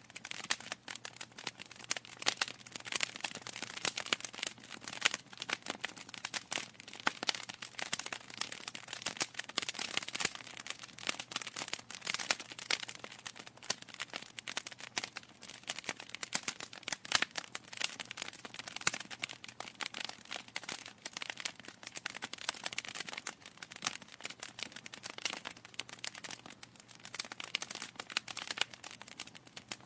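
Logs burning in a fireplace, crackling steadily: a dense run of small clicks with louder pops scattered through it.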